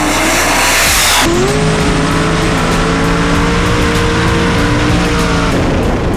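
A race vehicle's engine running loud, with a burst of tire and exhaust hiss at the start, and music mixed under it.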